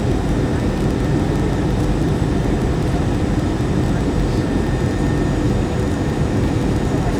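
Steady cabin noise inside an Airbus A321 in flight: an even low rush of jet engines and airflow, with a few faint steady tones over it.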